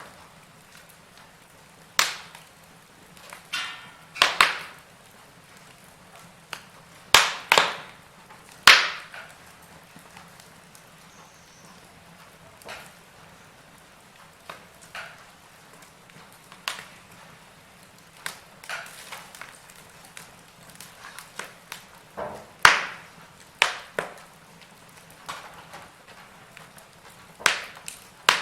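Wood fire crackling, with sharp, irregular pops and snaps from burning logs over a low steady hiss.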